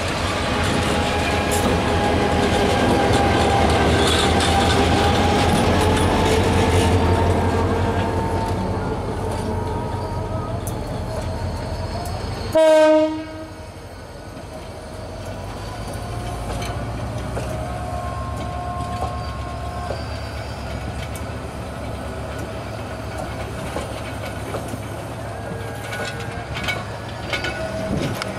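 Diesel locomotive passing close with its engine running, then its long train of passenger coaches rolling by with steady wheel noise on the rails. About halfway through, a brief, loud horn blast.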